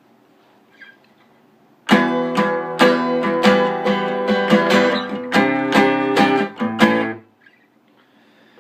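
Guitar strummed in a run of chords, starting about two seconds in and stopping abruptly about seven seconds in.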